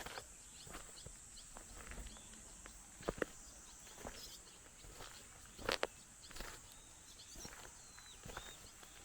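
Footsteps, a short crunch about every half second, with two louder double knocks about three and six seconds in. Behind them runs a steady high insect drone, with a few faint bird chirps near the end.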